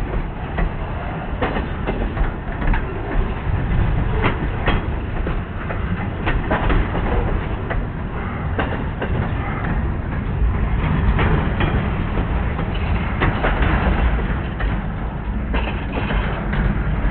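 A circus train's cars rolling past on the track: a steady low rumble with irregular clicks and clatter of wheels over the rail joints.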